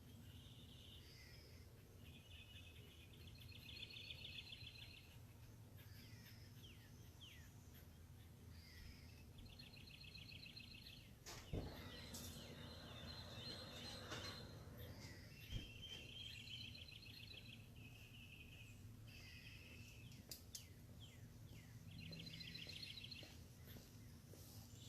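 Birds calling faintly: a series of short, rapid trills about a second long each, repeated every few seconds, with a few quick down-slurred chirps between them, over a steady low hum. Two sharp knocks sound a little before halfway and again about four seconds later.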